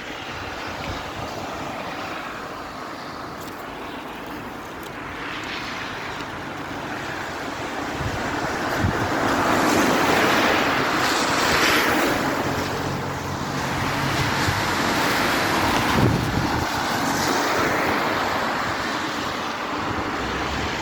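Traffic on a wet street: cars swishing past on the rain-soaked road, with the loudest passes swelling and fading about halfway through and again a few seconds later.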